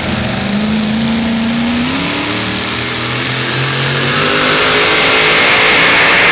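Pulling truck's engine at full throttle, dragging a weight-transfer sled down the track; its pitch climbs over the first few seconds and the sound grows louder near the end.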